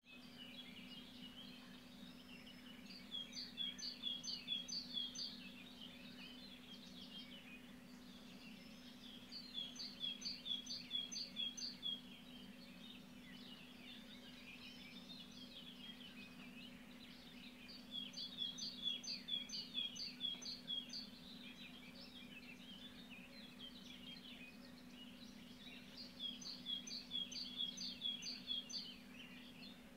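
Birdsong: one songbird repeats a quick phrase of about six high notes four times, roughly every seven seconds, over steady chirping from other birds and a low steady hum.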